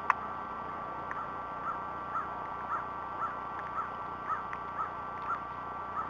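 A bird calling: a series of short high chirps, each rising and falling, about two a second, over a faint steady whine. A single sharp click comes just at the start and is the loudest moment.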